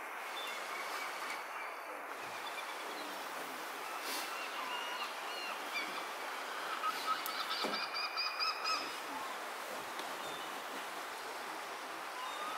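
Birds calling in short high-pitched notes over a steady rushing background, the calls coming thickest about seven to nine seconds in.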